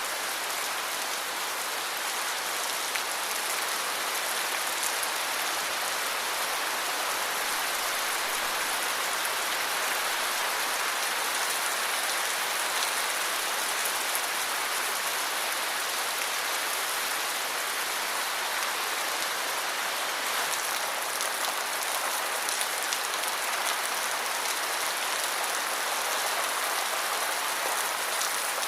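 Steady, heavy rain falling, a dense even hiss with fine drop patter throughout.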